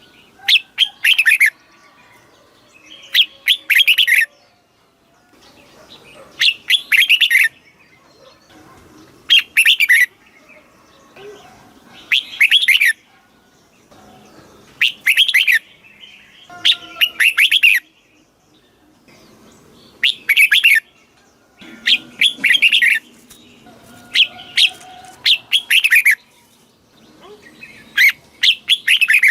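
Red-whiskered bulbul singing: short, bright, whistled phrases of about a second each, repeated every two to three seconds.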